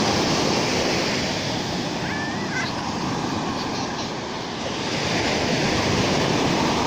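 Rough Black Sea surf breaking on the shore: a continuous wash of waves that swells up near the start and again about six seconds in.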